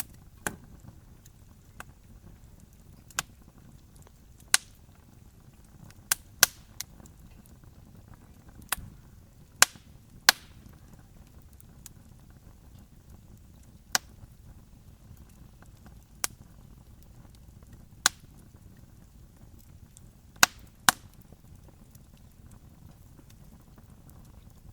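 Wood campfire crackling: sharp, isolated pops and snaps every second or two, some louder than others, over a low steady rumble of the burning fire.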